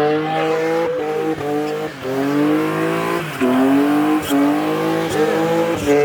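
Car tires squealing continuously, with wavering pitch and short breaks about every second.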